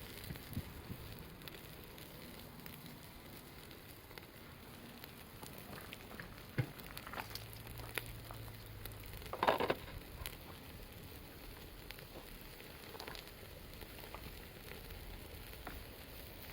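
Wood campfire crackling steadily with scattered small pops and ticks, and a brief louder clatter about nine and a half seconds in.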